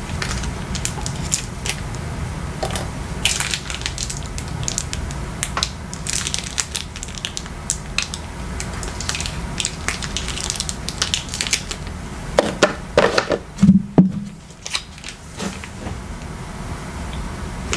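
Plastic squeeze bottle of sriracha being squeezed, giving irregular crackling and clicking sputters as the sauce squirts out, with a denser run of sputters near the end.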